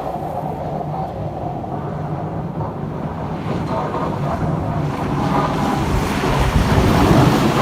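Strong wind gusting against the microphone in a snowstorm, a rumbling rush that builds and is loudest near the end.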